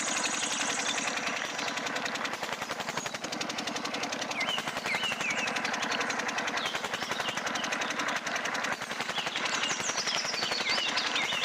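Small homemade model engine running with a fast, steady, even knocking beat.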